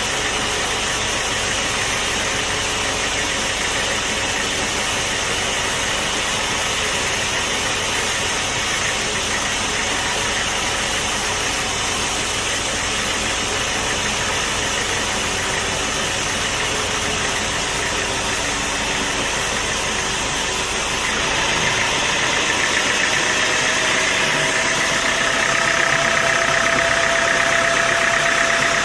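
Sawmill machinery running steadily with a dense mechanical noise. About two-thirds of the way in it gets a little louder and a steady whine comes in over it.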